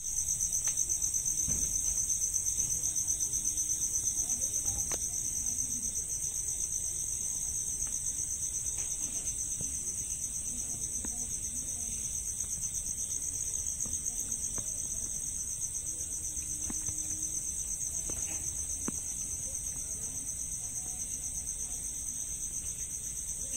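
Insects trilling: a continuous high-pitched trill made of very fast, even pulses that never breaks.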